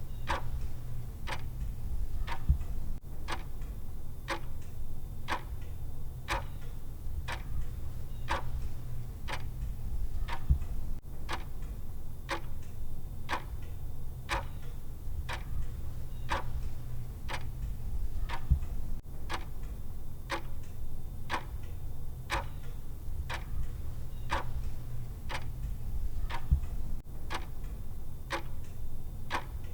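Countdown timer's clock-tick sound effect ticking steadily, a little faster than once a second, over a steady low hum, with a brief low thump about every eight seconds.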